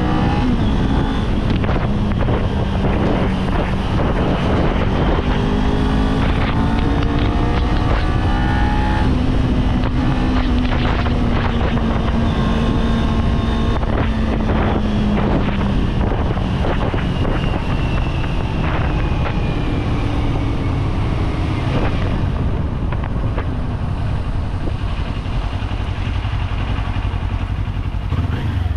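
Kawasaki Z400 motorcycle engine under way, its pitch climbing in steps through the first several seconds, then holding and slowly falling away as the throttle eases, with road and wind noise beneath.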